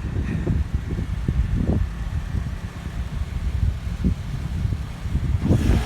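Cars driving away with engines running, under gusty wind buffeting on the microphone; one gets louder near the end as it passes close.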